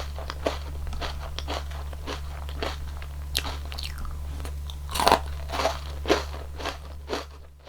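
Close-miked biting and chewing of a cone ice cream with a crunchy wafer cone, a crunch about every half second, the loudest about five seconds in. A steady low hum runs underneath.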